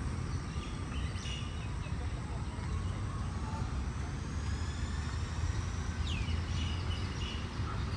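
Steady low traffic noise with birds chirping over it, a few short calls near the start and a quick falling call about six seconds in.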